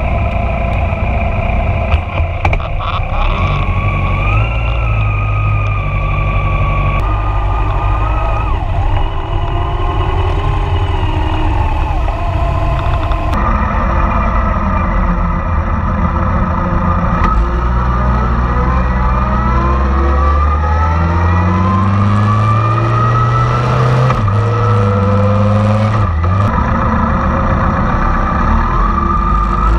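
Motorcycle engines running in a pit lane: a Yamaha FJR1300's inline-four carrying the bike along at low speed, with engine pitch rising several times in the second half as the bikes pull away. The sound changes abruptly twice in the first half.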